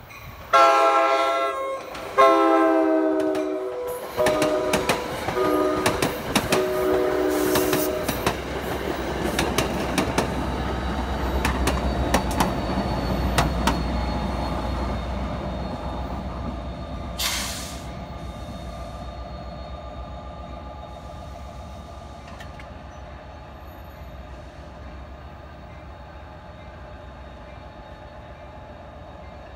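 New Jersey Transit push-pull train sounding its horn: two long blasts, then a short and a longer one, the grade-crossing signal. The train then rolls past with a steady low rumble from the PL42AC diesel locomotive at the rear, with a brief hiss about two-thirds of the way in, and fades as it moves off.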